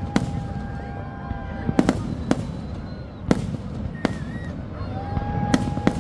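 Fireworks display: about seven sharp bangs of bursting shells at uneven intervals, with long steady whistling tones in between and a continuous low rumble underneath.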